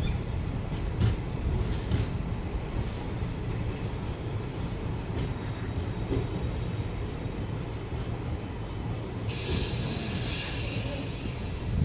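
Passenger train coach running on the rails: a steady low rumble with a few faint clicks in the first few seconds. About nine seconds in a hiss joins it for roughly two and a half seconds.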